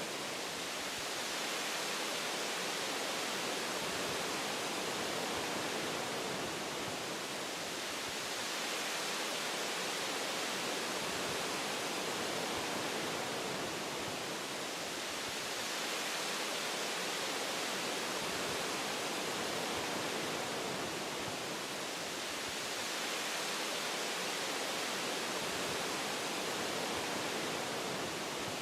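Wind blowing through tree branches and leaves, a steady hiss that swells and eases gently every several seconds.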